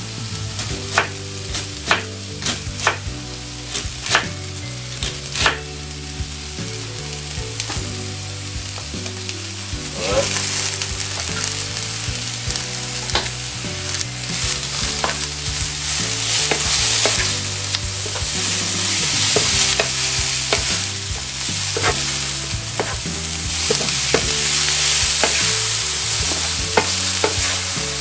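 Vegetables sizzling in hot oil in a frying pan while being stirred with a wooden spoon. A few sharp knocks come in the first few seconds. The sizzle grows louder about ten seconds in, as shredded cabbage goes into the pan.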